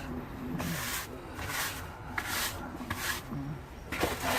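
Footsteps crunching through deep snow at a steady walking pace, a crunch about every 0.7 seconds.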